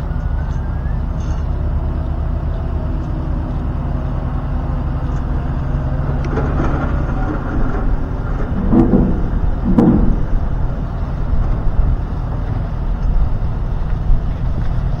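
Older farm tractor's engine running steadily after being freshly started, its note shifting about halfway through, with two brief louder surges near the end of the first two-thirds.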